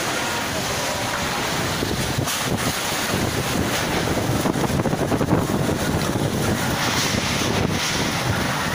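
Strong wind buffeting the microphone: a loud, steady rush of noise that swells a little in the middle.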